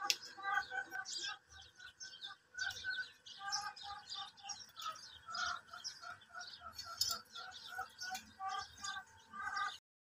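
Small birds chirping: a steady run of short, repeated chirps, several a second, that cuts off suddenly just before the end.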